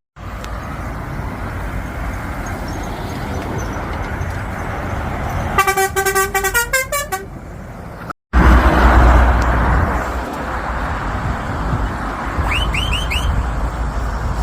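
Passing road traffic with a truck's air horn sounding in a quick run of blasts about six seconds in, its pitch dropping at the end of the run. Later a heavy truck passes with a loud low rumble, and four short high chirps sound near the end.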